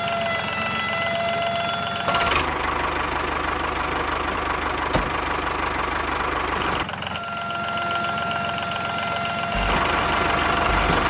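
Small motor of a miniature tractor running, its sound changing as it works: a steady whine at first, a rougher, pulsing stretch from about two seconds in to about seven, then the whine again and a heavier low rumble near the end.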